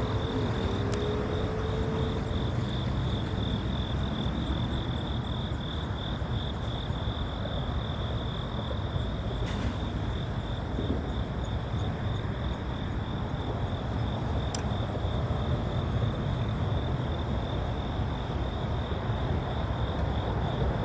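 Steady low rumble of idling diesel locomotives, with a continuous high-pitched trill of insects over it.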